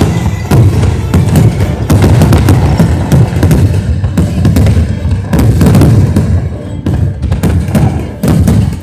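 Fireworks going off in quick succession, many sharp bangs and crackles, loud, with music playing along under them.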